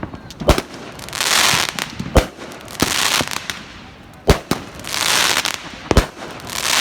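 Fireworks bursting: a sharp bang about every two seconds, four in all, each followed by a drawn-out hissing crackle.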